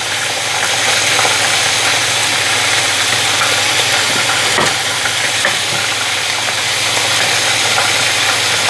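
Chicken pieces frying in oil in a pan: a steady sizzling hiss, with a light tap about halfway through.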